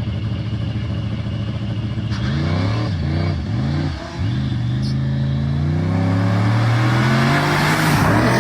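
Audi S4's twin-turbo V6 accelerating, its pitch climbing and dropping back with quick gear changes about three and four seconds in, then pulling up in one long rise before another drop near the end.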